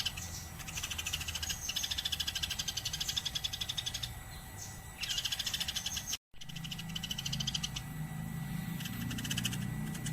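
Eurasian tree sparrow chirping in fast runs of short, high chirps, broken by brief pauses. The sound cuts out for a moment about six seconds in, and afterwards a low hum runs under the chirps.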